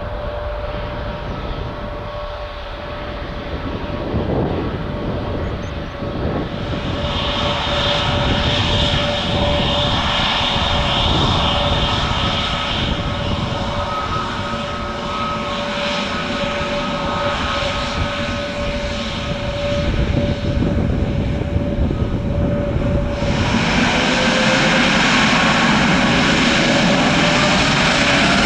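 Jet airliner engines: a steady engine rush with a constant whine, which changes abruptly about seven seconds in to an Airbus A320neo taxiing. About 23 seconds in it turns louder, with a whine rising in pitch as the engines spool up to take-off power.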